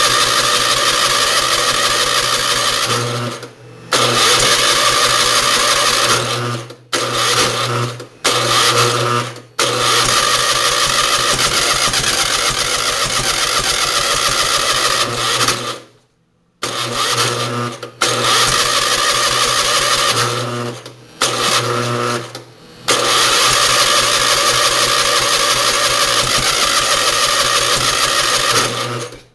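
Onan engine being cranked by its electric starter in about eight bursts of one to six seconds, with short pauses between them; it turns over without catching and running, in a no-start where the carburetor has plenty of fuel but the plugs stay dry.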